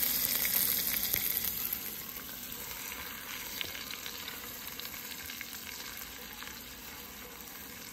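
Chopped onions sizzling as they fry in hot oil in a pan. The sizzle is louder at first and settles after about two seconds to a steadier, quieter frying hiss with small crackles.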